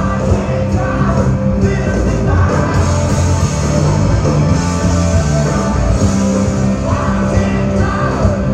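Rock music with singing: a full band playing loud and steady, with a vocal line over it.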